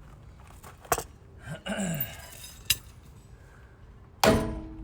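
A few light metal clinks, then near the end one loud metal strike that rings on at several pitches: a hammer blow against a wheel rusted onto its hub.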